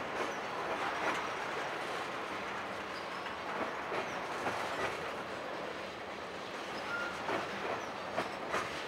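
Tank cars of a long freight train rolling past: a steady rumble of steel wheels on rail, broken by irregular clacks at rail joints and a brief high squeal about seven seconds in.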